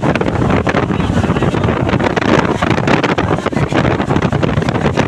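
Strong storm wind gusting and buffeting the microphone, a loud, continuous rushing roar with rapid crackling bursts.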